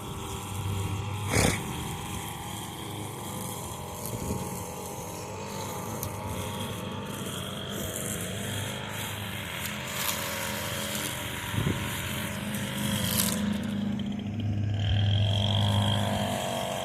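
Small petrol engines running steadily: a Craftsman riding lawn mower and an Echo SRM 225 two-stroke string trimmer, with a thin high whine that comes and goes. A sharp knock comes about a second and a half in, and a fainter one near the end.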